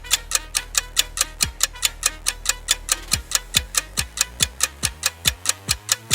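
Rest-timer sound effect: fast, even clock-like ticking, about four or five ticks a second. From about three seconds in, low falling bass thuds join it and come faster and faster.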